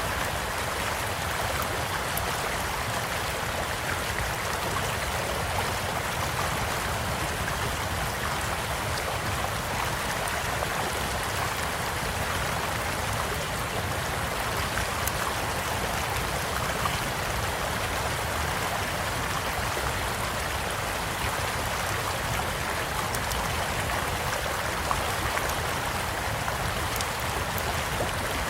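Small stream flowing steadily, with sparse light pops and crackles from a wood campfire over it, a couple of slightly louder pops late on.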